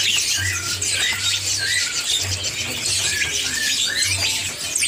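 Many caged songbirds chirping and twittering at once, a dense chorus of short calls and quick whistles, with a low hum that comes and goes underneath.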